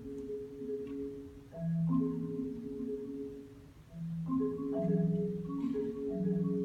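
Solo marimba playing slow, held chords in its low-middle register, with a new chord coming in about every one to two seconds.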